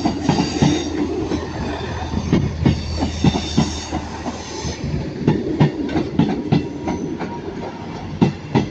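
East Midlands Railway Class 158 diesel multiple unit arriving, its wheels knocking over rail joints and points in an irregular clatter, with a high wheel squeal about three seconds in, over a low rumble.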